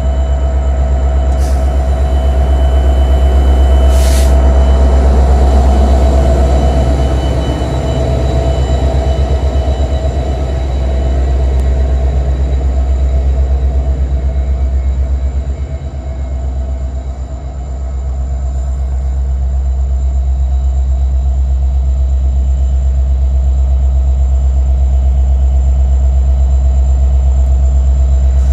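Metra commuter train running at the station platform: a loud, steady low rumble with a constant hum above it, dipping briefly about two-thirds of the way through.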